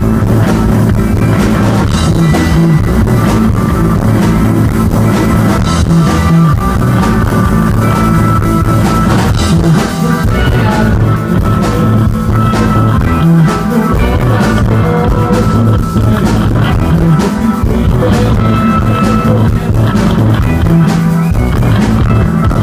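Indie rock band playing live through a loud PA: distorted electric guitar, bass guitar and drum kit in a steady groove.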